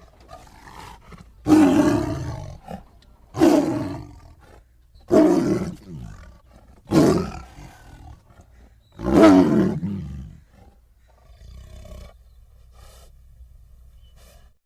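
Tiger roaring five times in a series, each roar about a second long and falling in pitch, the last the longest and loudest. Fainter short low sounds follow before the sound stops.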